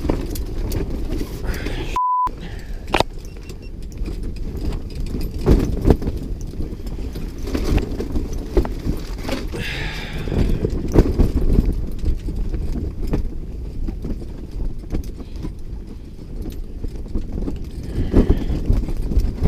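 Strong gusty wind buffeting the microphone, a low rumble that rises and falls, with scattered knocks and clicks. About two seconds in, the sound drops out briefly and a short beep is heard.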